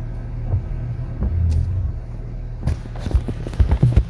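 Truck running and rolling slowly, heard from inside the cab as a steady low engine and road rumble, with a few irregular knocks and rattles near the end.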